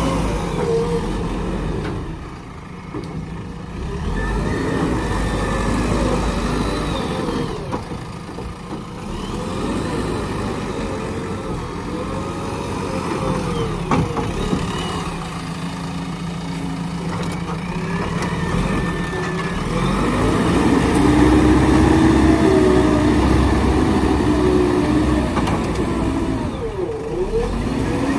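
JCB backhoe loader's diesel engine running under hydraulic load as it digs and fills, the revs rising and falling again and again.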